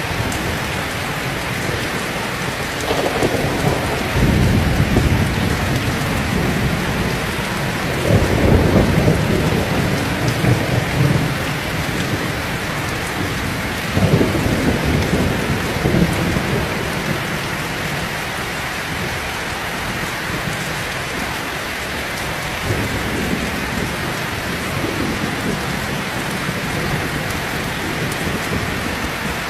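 Heavy rain falling steadily, with rolls of thunder rumbling through it: three strong rumbles in the first half, the loudest about eight seconds in, and a fainter one later.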